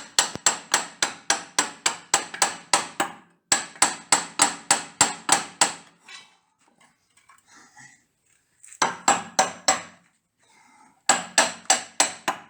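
Rapid hammer blows, about five a second in runs with short pauses, knocking a rusted, seized water pump on a 1959 Fordson Dexta tractor to free it.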